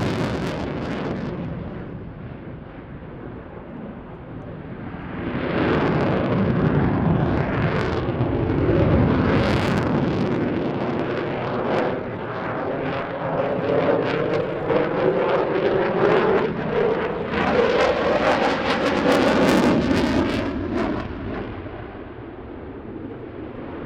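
Eurofighter Typhoon's twin EJ200 turbofans in flight: the jet noise fades, swells again about five seconds in and stays loud with tones sliding in pitch as the fighter passes, then falls away near the end.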